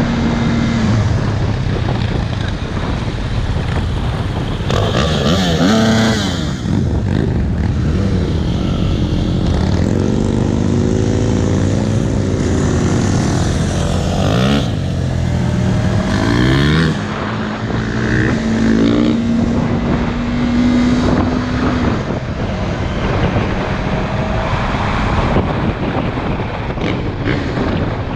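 Motorcycle engine heard while riding, with wind noise over it: the engine note rises and falls with throttle and gear changes, then holds a steady tone for a few seconds past the middle.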